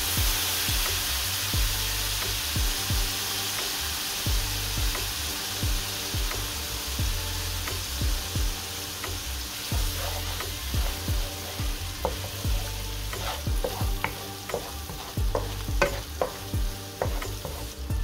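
Sliced onions and green peppers sizzling in oil in a frying pan, the sizzle loudest at first as lemon juice is squeezed in. From about halfway the mix is stirred with a wooden spatula, with frequent short knocks against the pan.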